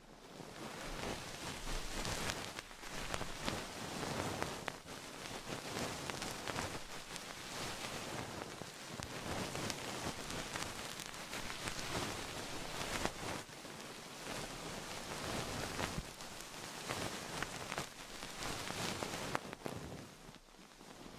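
Continuous close-up rustling and crackling, dense with fine clicks, easing slightly near the end.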